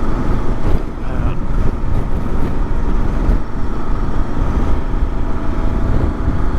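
Kawasaki KLR650's single-cylinder engine running steadily under way, mixed with a constant low rush of wind and road noise.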